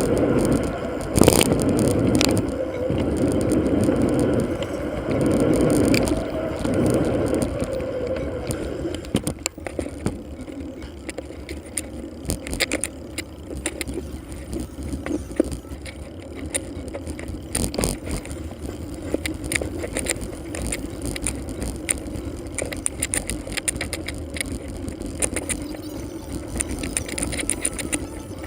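Bicycle ride noise played at four times speed: wind and road rumble with frequent short rattles and clicks, loudest for the first nine seconds or so and then dropping to a lower steady level.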